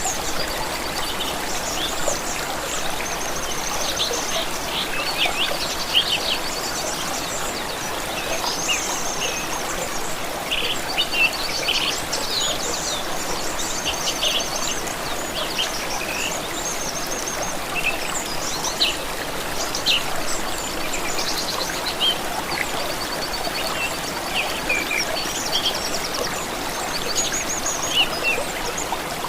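Several songbirds chirping and trilling over the steady rush of a small stream.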